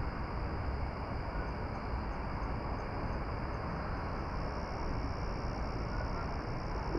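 Steady outdoor ambience at dusk: a continuous low rumble under an even hiss, with a thin, steady high-pitched band above it.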